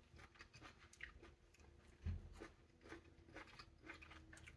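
Faint chewing of a bite of half-ripe plum, with small wet clicks from the mouth. A low, dull thump about two seconds in.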